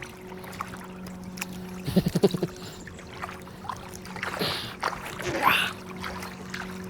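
Kayak being paddled on a lake: paddle strokes and water splashing, over a steady low hum. There is a short pulsing pitched sound about two seconds in.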